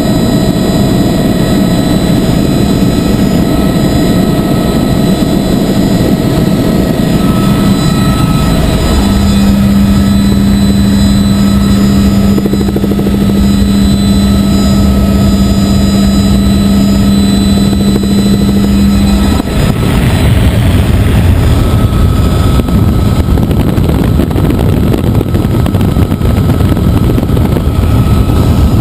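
Helicopter in flight: steady rotor and turbine noise with a high whine. A strong low hum comes in about a third of the way through and drops out about two-thirds through, after which rumbling wind on the microphone grows.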